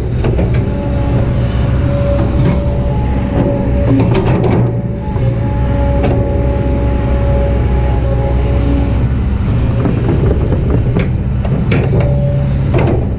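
Kobelco SK200-8 excavator working: the diesel engine runs steadily under load, with a high whine from the hydraulics that holds for several seconds and returns near the end. Scattered knocks and clanks come from the working arm and bucket.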